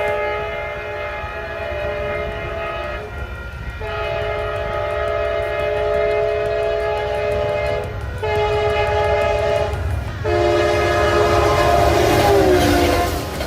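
Train horn sounding a multi-note chord in four blasts, long, long, short, long, the pattern of the standard grade-crossing signal, over the low rumble of the moving train. The horn's pitch drops near the end of the last blast.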